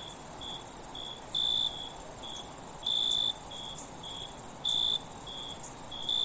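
Night insect chorus: a steady high-pitched trill, with a cricket chirping over it in short regular notes about twice a second, a few of them longer and louder.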